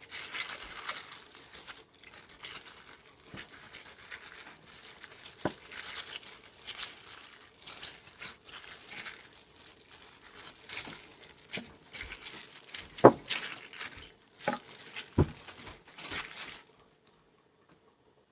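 Hands patting and rubbing dry seasoning onto raw chicken pieces: irregular soft wet slaps and rustles, with a few sharper taps. The sound stops abruptly near the end.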